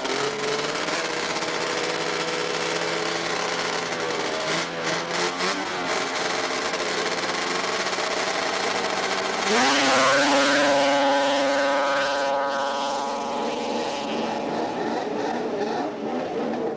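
Racing snowmobiles' two-stroke engines running at the start line, then about nine seconds in they launch with a sharp rising whine and hold full throttle, the sound growing duller as they pull away.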